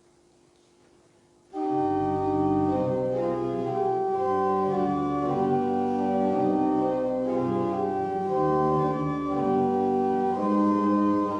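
Organ starts playing a hymn introduction about one and a half seconds in, with sustained chords that change every second or so.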